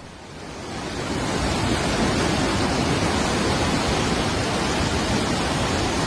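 Rushing floodwater: a steady, dense rush of a swollen torrent, fading in over the first second or so.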